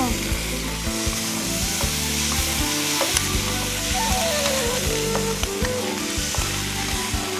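Fish-fragrant sauce sizzling and bubbling in a hot wok as a spatula stirs it, with small scrapes and clicks, over background music.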